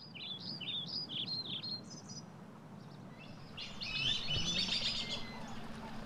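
Several small birds chirping: a run of short stepped notes in the first two seconds, then denser overlapping chatter from about three and a half seconds in, over a faint steady low hum.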